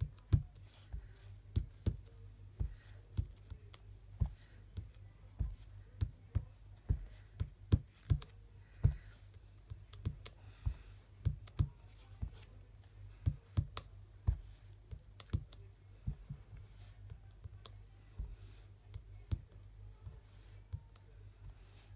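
Repeated light taps on card on a craft desk as small dots are dabbed onto a handmade card, about two a second, thinning out after about sixteen seconds.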